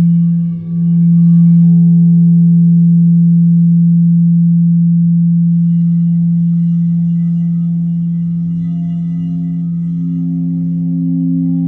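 A sustained low ringing tone, steady throughout, with a brief dip less than a second in. Fainter higher overtones fade out about two seconds in, and a second, wavering tone a little higher joins about eight seconds in.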